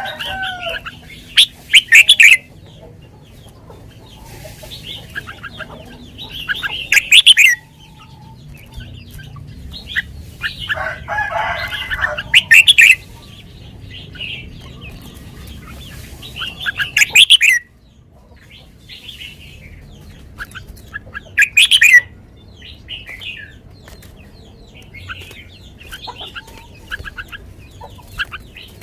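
Red-whiskered bulbul singing: loud, short song phrases about every five seconds, with quieter chirps in between.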